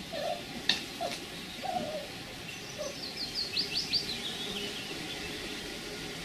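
A songbird sings one quick phrase of high notes stepping down in pitch around the middle. Before it, in the first three seconds, there are a few short low squeaky calls and a couple of sharp clicks, the loudest about two-thirds of a second in.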